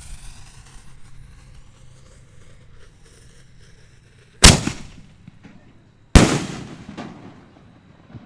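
Two loud bangs from Excalibur 4-inch canister shells, about 4.5 and 6 seconds in, each followed by an echo that dies away.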